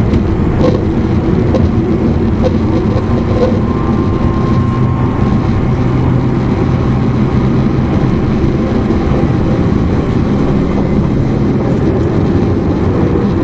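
E259-series electric train running at speed, heard inside a motor car: a steady rumble of wheels on rail with the hum of the traction motors. Light clicks come about once a second over the first few seconds.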